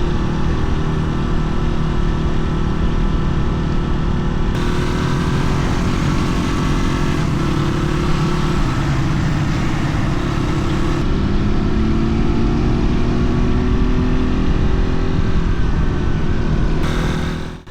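Dirt bike engine running under way, its pitch rising and falling with the throttle, with abrupt changes in tone a few times.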